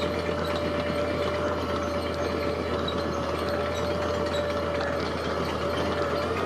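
Heavy construction machinery running steadily: a continuous engine rumble with a steady high whine over it.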